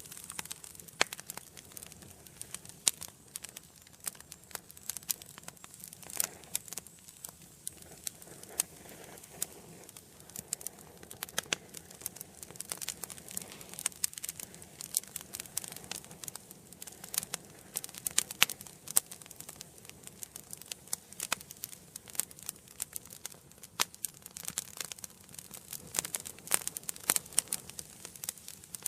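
Wood fire burning in a fireplace: many sharp, irregular crackles and pops over a soft steady hiss.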